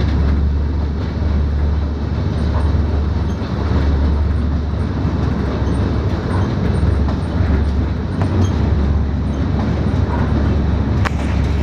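Steady low rumble and rattle of a moving passenger train, heard from inside the coach, with one sharp click near the end.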